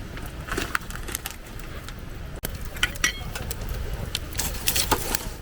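Wood campfire crackling and popping in irregular sharp snaps over a low rumble, with a brief high chirp about three seconds in.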